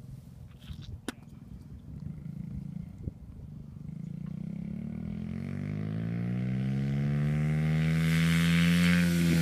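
Dirt bike engine coming up: from about four seconds in, its pitch rises smoothly and it grows steadily louder, levelling off near the end. Before that there is only a low hum with a few sharp clicks.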